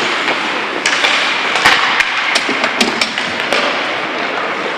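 Ice hockey play on the rink: a steady scraping hiss of skates on ice, with a run of sharp clacks from sticks and puck between about one and three and a half seconds in.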